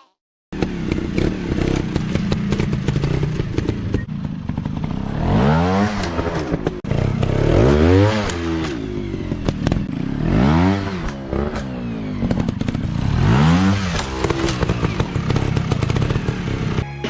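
Dirt bike engine revving in repeated bursts, its pitch rising and falling four times, with rattling and clattering underneath.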